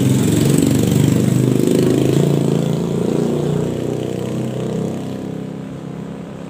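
Motor vehicle engine running loud and close, its low rumble fading away over the last few seconds as it moves off.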